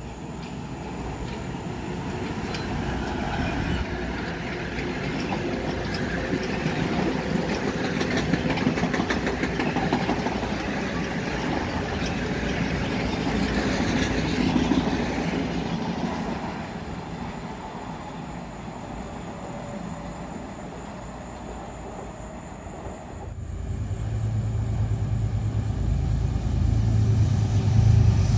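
Metro-North electric multiple-unit commuter train running past, its wheels rumbling and clicking on the rails, building to a peak about halfway through and then fading. Near the end a louder, low rumble of another train approaching comes in abruptly and keeps growing.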